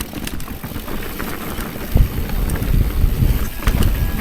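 Wind buffeting the microphone of a rider's camera as a mountain bike rolls downhill, a gusty low rumble that grows stronger about halfway through, with faint clicks and rattles from the bike over rough ground.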